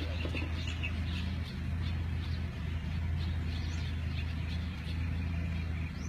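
Birds chirping faintly, in short high chirps scattered throughout, over a steady low rumble.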